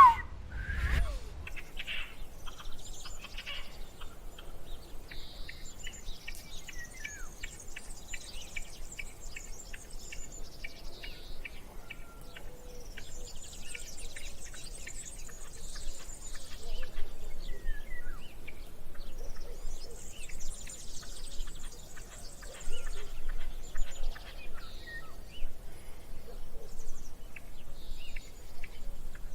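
Birds chirping and calling over an outdoor background, with many short clicks and ticks scattered throughout.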